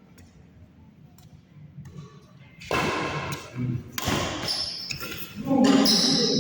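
Badminton play: sharp racket strikes on a shuttlecock, quiet at first, then a loud hit about four seconds in, with loud shouting voices in the last few seconds.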